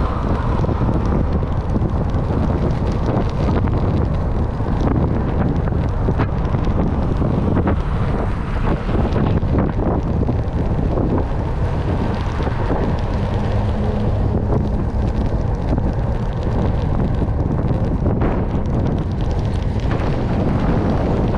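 Steady, loud wind buffeting the microphone of a rider moving along on a bicycle.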